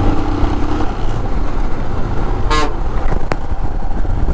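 Steady engine and wind rumble of a motorcycle at highway speed during an overtake of a bus, with a vehicle horn: a held horn tone that stops about a second in, then a short honk about two and a half seconds in.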